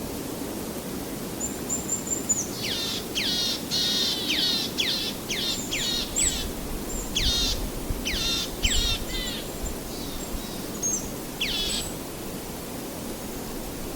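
Wild birds singing in several runs of quick, sharply descending high notes mixed with short thin whistles, over a steady low background rush.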